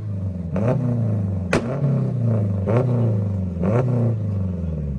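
Car engine on a two-step launch limiter, revved again and again in quick rising blips over a steady running note, with one sharp bang about a second and a half in.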